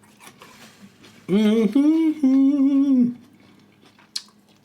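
A man humming with his mouth closed: three short connected notes with a wavering pitch, starting about a second in, the last held longest. Faint mouth clicks of eating are heard around it.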